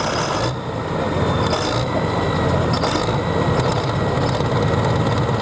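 A hot farm pulling tractor's engine, a John Deere, running steadily at low revs with a constant low hum.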